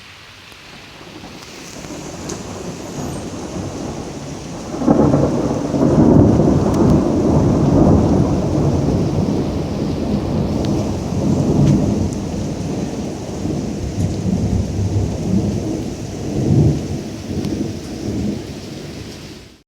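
Thunder rolling: a low rumble swells over the first few seconds, then a loud peal breaks about five seconds in and rumbles on, rising and falling, until it cuts off abruptly near the end. Steady rain hiss underneath.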